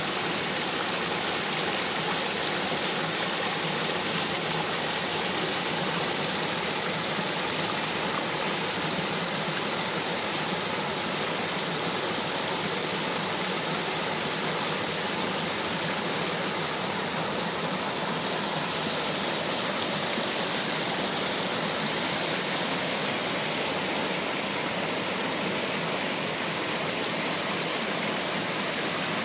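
Waterfall and stream water rushing steadily, an even, unbroken sound of falling and flowing water.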